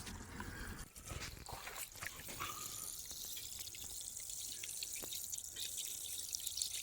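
Water dripping and trickling, with scattered light ticks.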